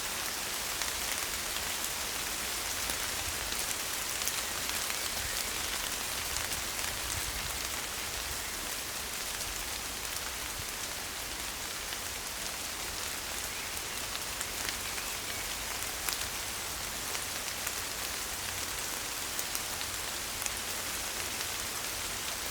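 Steady rain falling on forest ferns and leaves: an even hiss of many drops with scattered individual drop taps.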